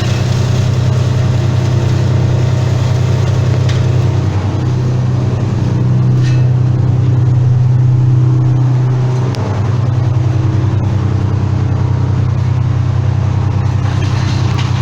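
An engine running steadily at a fairly constant speed, its pitch dipping briefly about four seconds in and again about nine seconds in.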